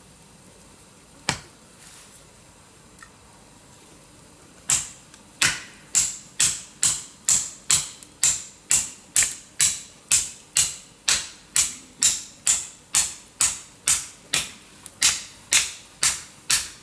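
Firewood being split: a steady run of sharp wooden strikes, a little over two a second, from a tool hammering into hard wood, which the campers take for oak. A single knock about a second in comes before the run starts.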